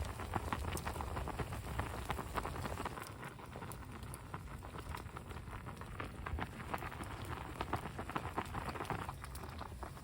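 Steady rain pattering in dense fine drips, with a low rumble under it for the first few seconds.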